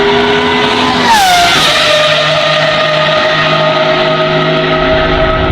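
V12 supercar engine pulling at high revs, its pitch climbing slowly, then dropping sharply about a second in as it shifts up with a brief crackling burst, then running steady at the lower pitch.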